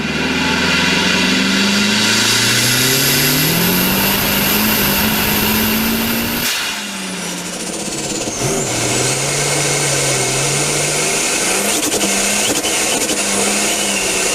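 Turbocharged car engines revving, with a high turbo whistle that climbs as the engine pulls. About six and a half seconds in there is a cut to a second car, whose engine dips, then revs up again under the whistle.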